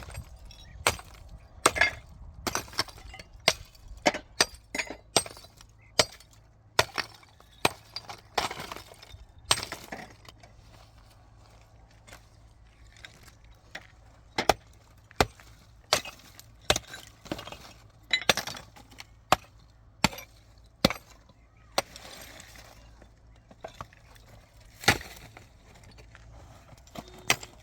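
Irregular sharp knocks and clinks of hard objects being struck or broken, about one or two a second, easing off for a few seconds midway, over a faint steady low hum.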